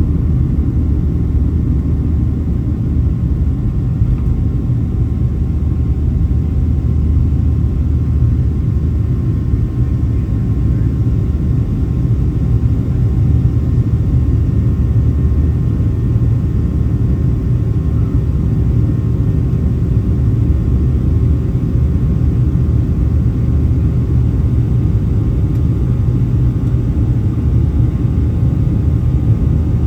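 Boeing 737-700 engines running, heard as a steady low rumble inside the passenger cabin, with faint steady tones above it.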